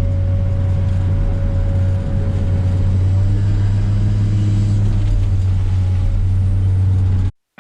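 Heavy-equipment diesel engine running steadily under load, a deep rumble with a steady hum above it. It cuts off abruptly near the end.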